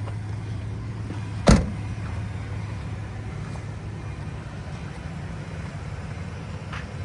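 A 2005 Ford Ranger's engine idling as a steady low hum, with one sharp knock about a second and a half in and a faint click near the end.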